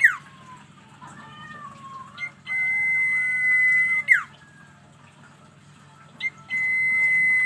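Sirtu bird singing its long drawn 'ngalun' song: a steady high whistle held for about a second and a half, ending in a sharp downward slur, heard twice about four seconds apart, with softer warbling notes in between.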